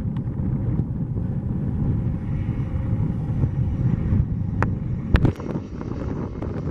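Aircraft engines rumbling steadily, with wind buffeting the microphone. There are two sharp knocks about four and a half and five seconds in.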